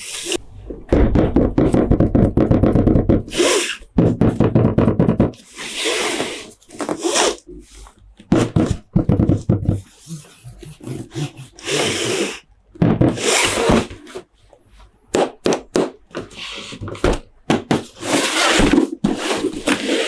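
Close-up handling of plastic Monster Jam toy trucks and their packaging: quick taps, clicks and knocks, with dense rattling passages and short bursts of scratchy rustling.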